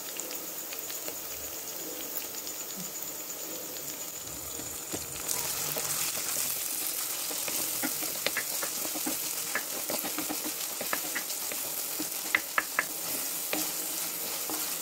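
Ginger-garlic paste, onion and tomato sizzling in hot oil in an earthenware pot, stirred with a steel spoon that clicks and scrapes against the pot. The sizzle grows louder about five seconds in, and the spoon clicks come more often in the second half.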